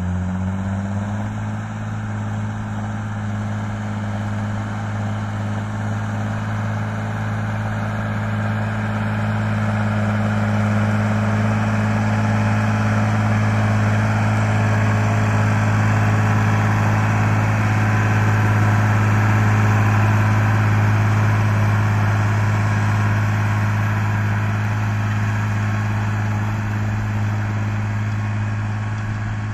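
Fendt tractor's diesel engine running steadily under load while ploughing, a deep, even hum that swells a little louder through the middle.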